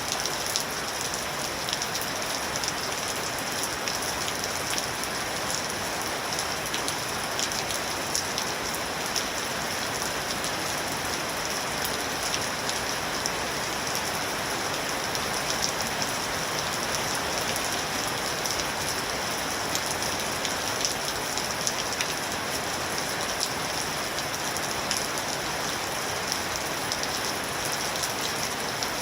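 Steady rain falling on a surface, with a constant patter of many small drop ticks.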